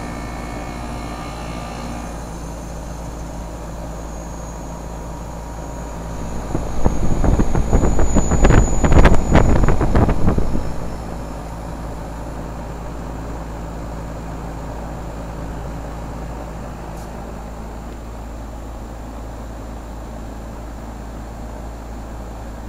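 Goodman heat pump outdoor unit running with a steady hum. Partway through, a loud rushing, hissing noise rises over it for about four seconds and then dies away.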